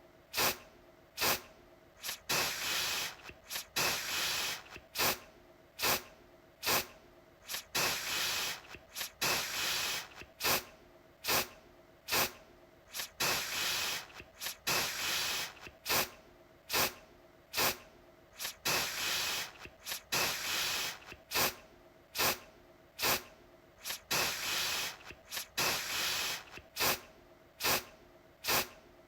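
Aerosol deodorant spray can sprayed over and over in short bursts, roughly one or two a second. Each burst starts sharply in a hiss, and a few are held a little longer before they cut off.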